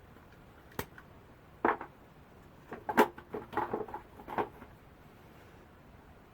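Plastic parts of a Toshiba Torneo V cordless vacuum's dust cup clicking and knocking as it is taken apart by hand. There is a sharp click about a second in, a knock, and then a quick cluster of clacks and rattles in the middle.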